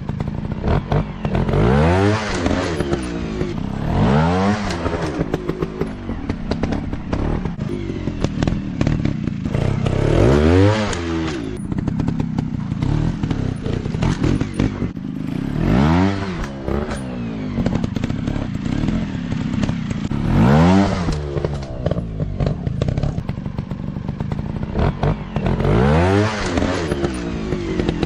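Small dirt bike engine revving hard in repeated bursts, about six times, each rising quickly in pitch and then dropping back, with rough clattering and crackle from the engine and riding between the revs.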